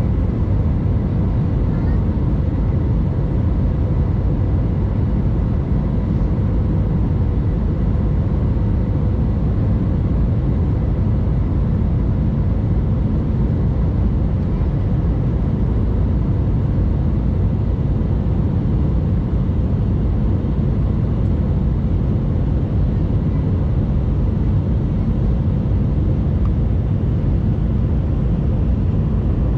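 Airbus A319 jet airliner in flight: steady, loud, low engine and airflow noise with a few faint steady tones above it.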